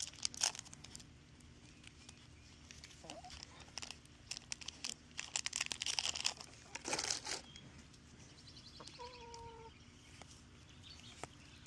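Foil booster-pack wrapper crinkling and trading cards being handled, in irregular bursts of rustling. About nine seconds in comes a short bird call.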